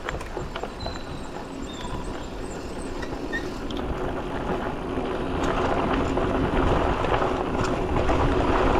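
Mountain bike tyres rolling over a woodland trail, with wind buffeting the microphone, getting louder from about halfway through as the bike picks up speed; a few small knocks and rattles along the way.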